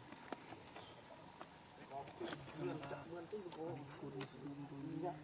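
Steady high-pitched drone of insects, cricket-like, holding one tone. A low, wavering voice murmurs under it from about two seconds in.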